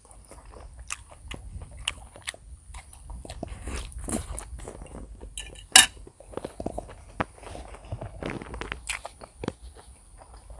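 A person chewing and biting food, with irregular wet clicks and crunches and one sharp loud click a little before six seconds in.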